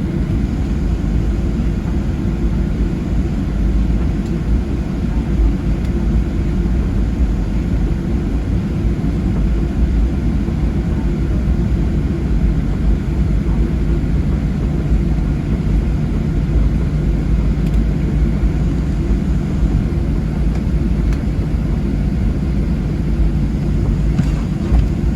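Steady low rumble inside the cabin of a Boeing 737-700 on the ground before takeoff, its CFM56-7B engines running at idle.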